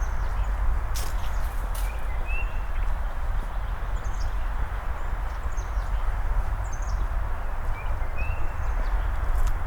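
Songbirds chirping here and there over a steady background hiss and low rumble, with a few sharp clicks about a second in and again near the end.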